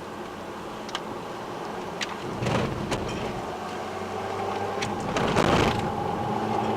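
Car engine running, with a few sharp clicks and two louder rushing swells, about two and a half and five and a half seconds in; from about halfway through, an engine note climbs slowly in pitch.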